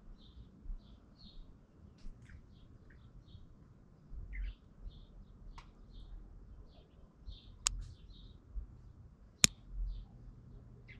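Small birds chirping with short, high calls scattered throughout, with two sharp clicks late on, the second the loudest.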